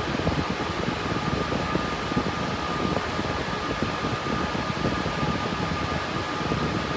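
The cooling fans of an RTX 3060 Ti cryptocurrency mining rig running steadily at full load: an even, constant rush of air with a faint steady whine above it.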